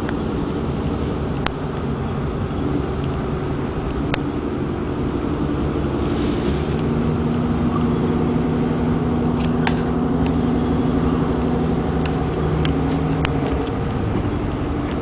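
Steady engine hum and road noise of a car, with the engine note shifting slightly about six seconds in, and a few faint clicks.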